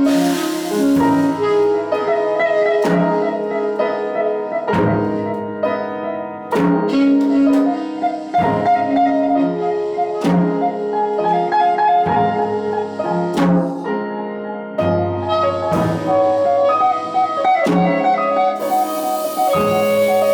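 Instrumental band music led by piano over bass and drum kit, with a regular accented hit about every two seconds. Cymbal wash comes in at the start and again near the end.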